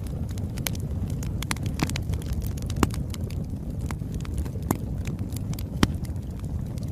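Fire crackling, with a steady low rumble of flame and irregular sharp pops and snaps throughout, two louder pops about three and six seconds in.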